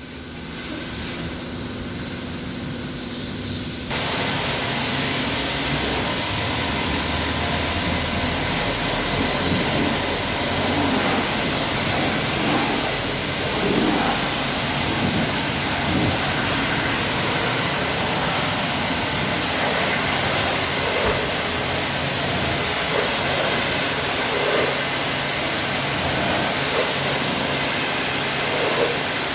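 High-pressure washer spraying water onto a car's body: a steady loud hiss that steps up in strength about four seconds in and then holds.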